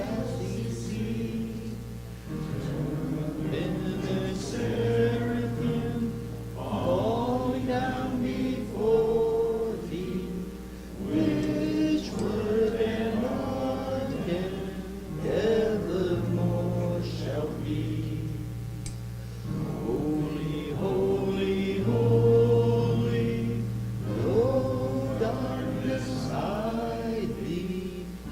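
Congregation singing a hymn together, in phrases of a few seconds with brief pauses between.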